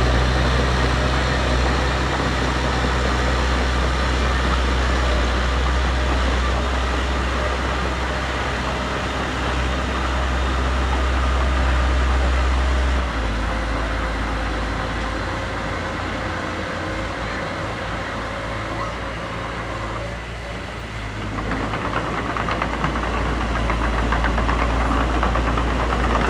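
Heavy earthmoving machine's diesel engine running: a steady low drone that changes about halfway through, dips briefly a few seconds before the end, then picks up again.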